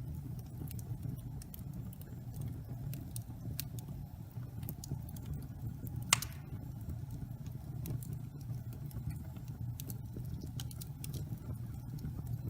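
Wood fire burning in a fireplace: a steady low rumble of the flames with scattered small crackles, and one sharp loud pop about six seconds in.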